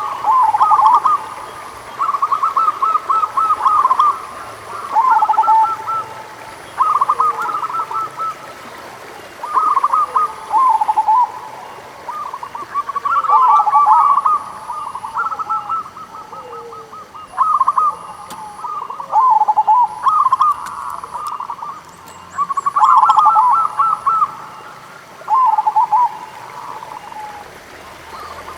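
Zebra doves (perkutut) cooing: phrases of rapid, trilled coos follow one another every second or two, some of them overlapping.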